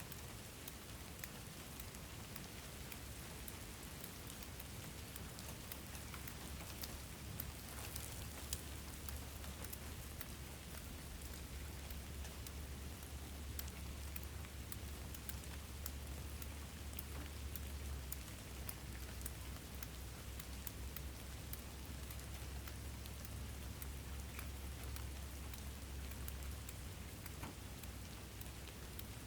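Steady rain falling: an even hiss dotted with many individual drop ticks, over a steady low rumble.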